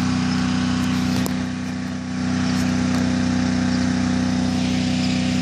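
A motor or engine running steadily, a constant hum at one pitch that dips slightly in level about two seconds in.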